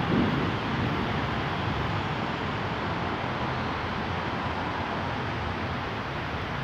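A Siemens Inspiro metro train running away along an elevated track, its rumble fading slowly under a steady hiss of rain.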